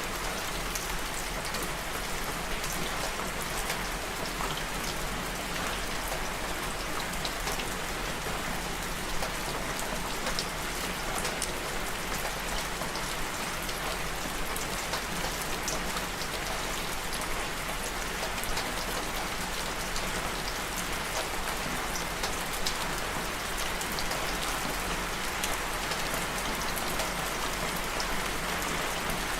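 Steady rain falling, with a dense patter of individual drops striking a surface. It keeps an even level throughout, and no thunder can be made out.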